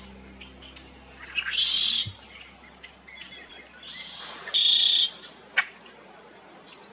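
Wild birds calling: two loud, high calls about half a second long, the first about a second and a half in and the second about three seconds later, followed by a single sharp click.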